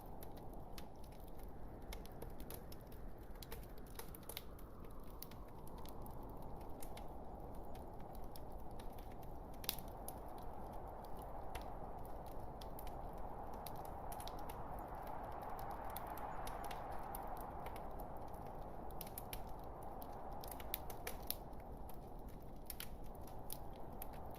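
Log fire crackling: frequent sharp pops and snaps over a steady rushing hiss that swells for a few seconds past the middle.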